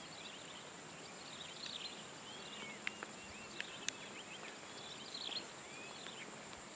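Small birds chirping in short clusters of quick rising and falling notes over a steady high-pitched drone, with a few sharp clicks near the middle.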